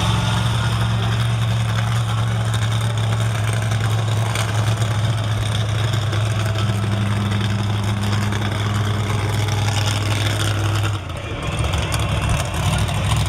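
Monster truck engines running loud at a steady pitch, which breaks off about eleven seconds in.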